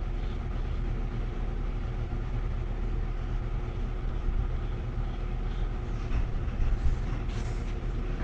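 A steady low mechanical hum, with a few faint knocks near the end.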